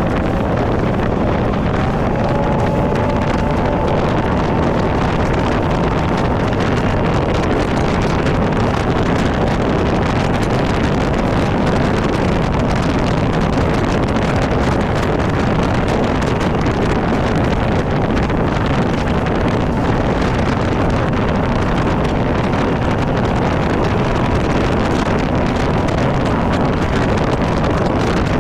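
Loud, steady wind buffeting the microphone over an old Ranger bass boat running at cruising speed, its outboard motor and hull on the water heard under the wind.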